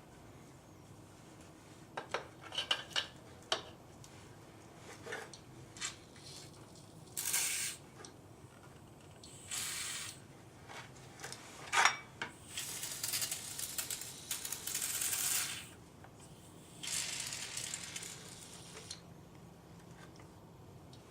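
Aerosol engine degreaser sprayed in four hissing bursts onto a distributor housing and shaft, the longest lasting about three seconds, with scattered clicks and knocks of the can and parts being handled in between.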